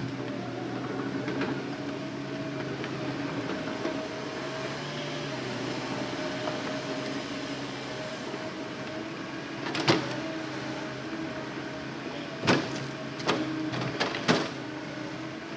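Zaxis hydraulic excavator running steadily with an engine hum and a hydraulic whine, as it loads logs. About five sharp knocks fall in the second half, two close together and three in a quicker cluster near the end.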